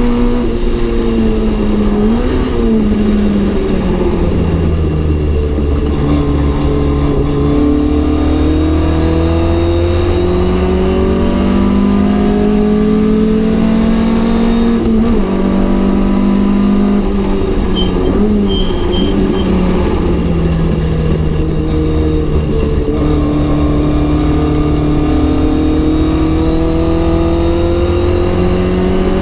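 Mk.1 Ford Cortina GT race car's four-cylinder engine running hard, its pitch climbing steadily under acceleration and dropping in steps at each gear change, with brief blips where it brakes and shifts down for corners, a few seconds in and twice past halfway.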